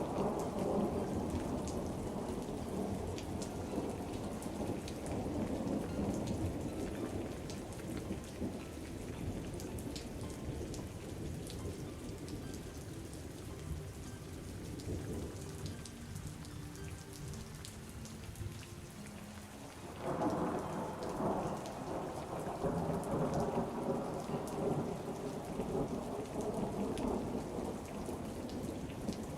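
Steady rain with rolling thunder rumbling low; the rumble eases off in the middle and swells again suddenly about two-thirds of the way through.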